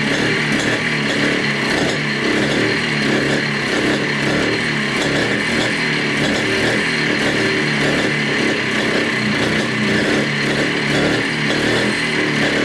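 Montesa Cota 247's single-cylinder two-stroke engine running steadily, freshly restarted after 42 years standing.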